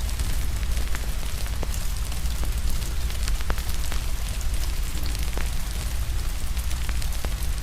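Rain and a crackling wood fire: a steady hiss of rain, with scattered sharp pops and crackles from the fire over a deep, steady low rumble.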